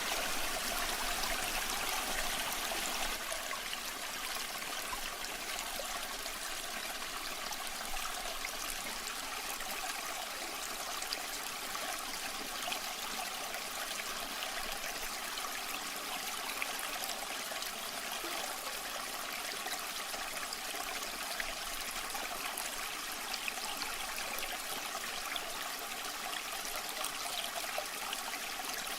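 Waterfall water running steadily: an even rushing hiss with small splashes scattered through it.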